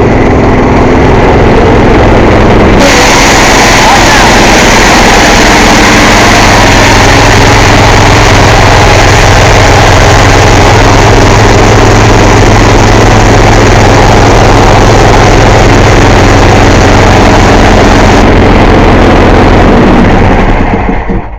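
Loud air compressor running steadily with a low engine hum; a strong hiss of air joins about three seconds in, and the whole noise cuts off near the end.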